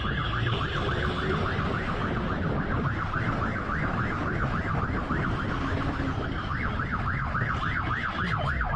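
Police car siren in rapid yelp mode, rising and falling about three to four times a second, over the rumble of the vehicle and road.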